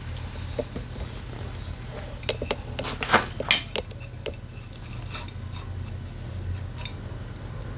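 Metal tools and engine parts clinking and tapping together, with a cluster of sharp clinks about two to three and a half seconds in and a few lighter ticks after, over a steady low hum.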